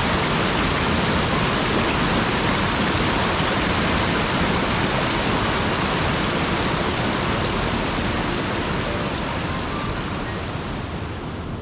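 Waterfall: a steady rush of falling water that fades slightly near the end.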